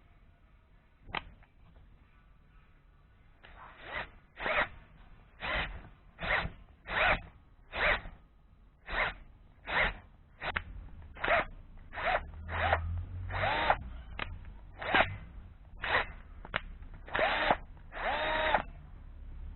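Power drill run in short bursts, about one every second, starting a few seconds in; the last few bursts are longer, with the motor's whine rising in pitch as it spins up.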